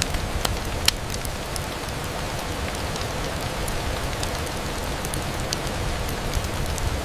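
Steady rain falling on a window, an even hiss with scattered sharp drop ticks; the sharpest tick comes about a second in.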